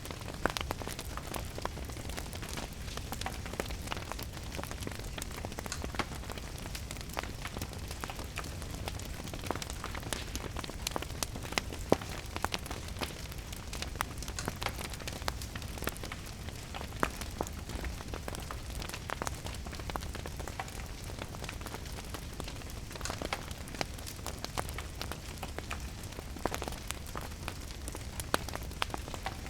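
Fire crackling with frequent sharp pops, one louder pop about midway, over a steady hiss of rain and a low rumble.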